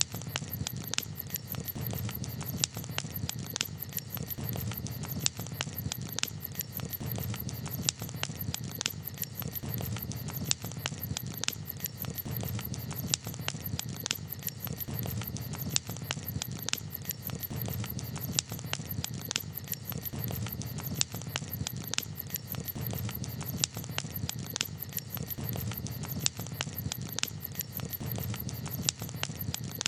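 Campfire crackling: irregular sharp pops and snaps from the burning wood, several a second, over a steady low background.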